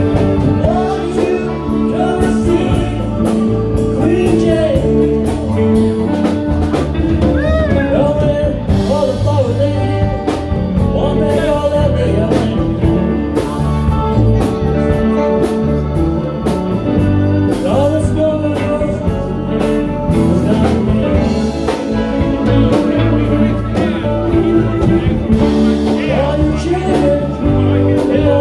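A live ragtime band playing a tune, with a steady bass line under a melody line that bends in pitch.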